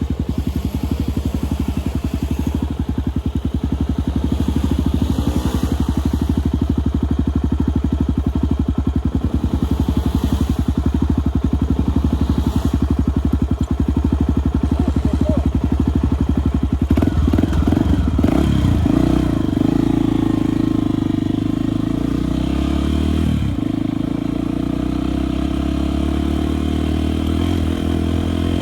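Single-cylinder enduro motorcycle engine running at low revs with evenly spaced firing pulses; about seventeen seconds in it revs up and then holds a steadier, higher note as the bike rides on.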